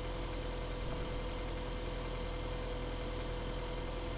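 Vehicle engine idling, a steady low hum with a thin steady whine above it.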